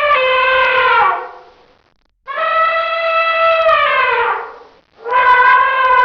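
Elephant trumpeting: three long calls, each held steady and then falling in pitch as it ends. One ends about a second in, the next runs from about two seconds to nearly five, and a third begins just after.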